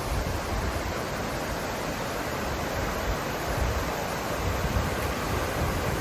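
A mountain river rushing with a steady, even noise, and low wind buffeting on the microphone a few times.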